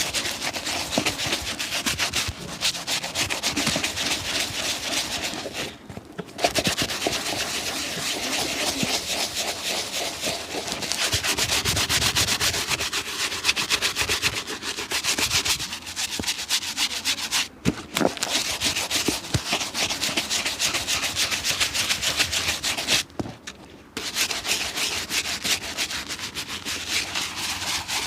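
Fast, continuous hand scrubbing on a shoe, a dense run of rubbing strokes, stopping briefly three times.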